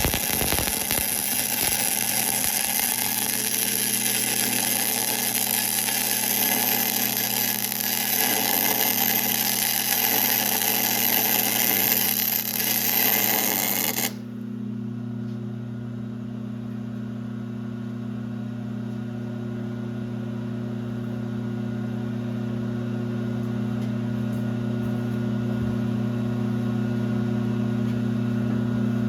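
Shop machinery running with a steady electrical hum. For about the first fourteen seconds a loud, harsh hissing noise from the metalworking on the hub lies over it, then cuts off suddenly, leaving only the hum.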